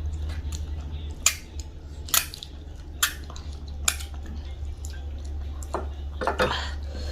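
Plates and utensils clinking while a meal is eaten: four sharp clinks about a second apart, then a busier patter of small clatter near the end, over a steady low hum.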